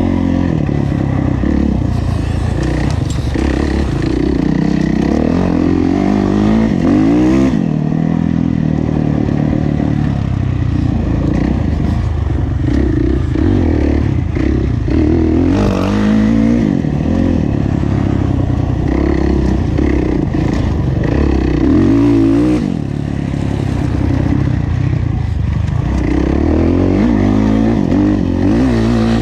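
Kawasaki KX450F's single-cylinder four-stroke engine under race throttle on a motocross track, its pitch climbing sharply several times and dropping away between, with a brief drop-off about two thirds of the way through.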